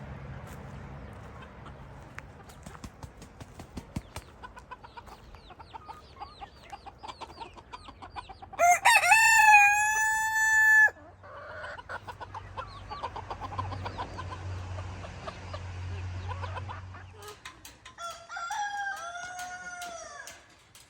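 A rooster crowing twice, the first crow loud near the middle and the second quieter near the end, over hens clucking.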